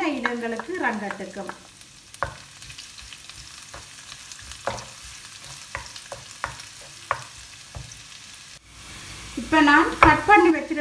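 Chopped garlic and ginger sizzling in oil in a nonstick wok as they are stirred with a wooden spoon. The spoon knocks or scrapes against the pan several times.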